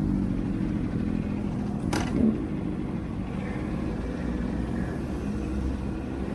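Aprilia RSV4 1100 Factory's V4 engine running under way, its note mixed with a steady low rush. About two seconds in there is a short sharp pop and the engine note drops.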